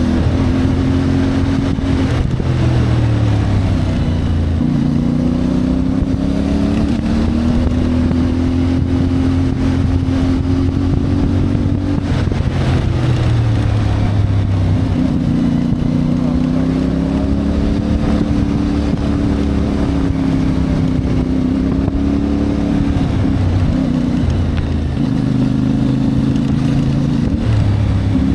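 CFMoto 450MT's parallel-twin engine running under way, its note dropping and climbing several times as the bike slows and speeds up again.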